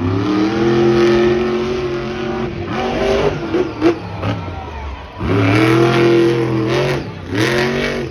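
Monster truck engine revving hard in repeated surges: a long rev at the start, a couple of short blips in the middle, then another long rev and a short one near the end.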